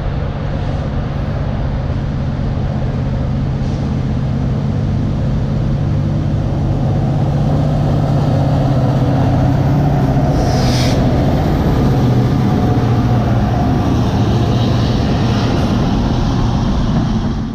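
Freight train passing close by: the diesel locomotives' engine drone swells as they come by, loudest about midway, then the tank cars roll past with a steady rumble of wheels on rail. A short sharp high sound rings out briefly about eleven seconds in.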